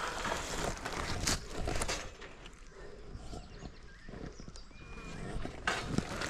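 Irregular rustling and soft thuds like footsteps through undergrowth, dying down after about two seconds and picking up again near the end.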